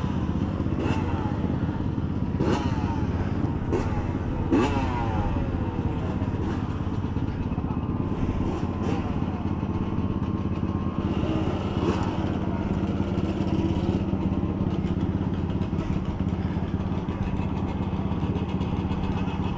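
Several motorcycle engines running together in a steady drone, with revs rising and falling over the first few seconds.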